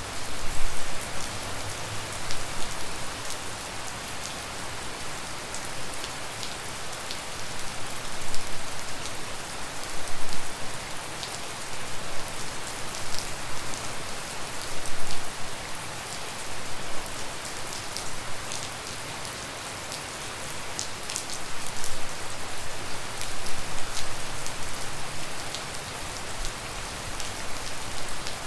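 Steady tropical rain falling, with many individual drops pattering on surfaces, the downpour swelling and easing from moment to moment.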